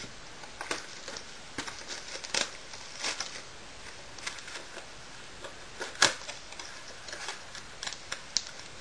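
Hands opening a cardboard trading-card box and handling the wrapped packs inside: irregular light crinkles and taps, the sharpest about six seconds in.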